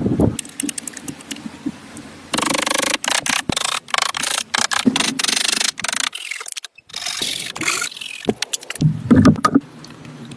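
Wood being scraped, rubbed and knocked in a run of irregular clicks and noisy scraping stretches, broken by a sudden cut about two-thirds of the way through.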